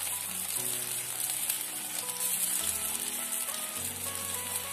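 Colocasia-leaf roll pieces deep-frying in hot oil, a steady sizzle, with background music playing over it.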